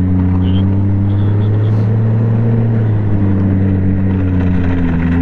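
Snowmobile engine running steadily with a low, even hum, its pitch shifting slightly partway through.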